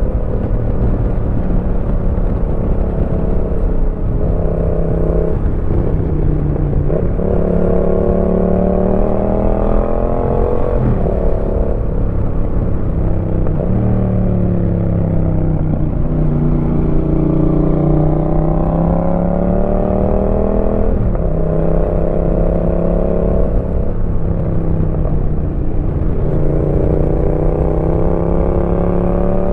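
Yamaha MT-07's 689 cc parallel-twin engine breathing through an aftermarket Roadsitalia exhaust while being ridden. The engine note rises repeatedly under acceleration, with sudden drops at the gear changes, and sinks in pitch between pulls as the throttle is rolled off.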